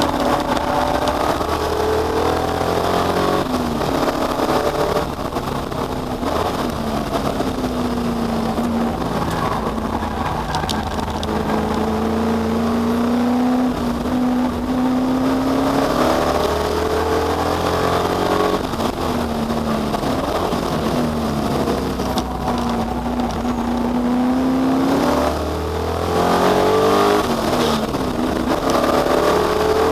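Ford Capri V8 race car engine running hard on track. Its pitch climbs and drops again and again as it accelerates, shifts and brakes, holding steady for a few seconds in the middle.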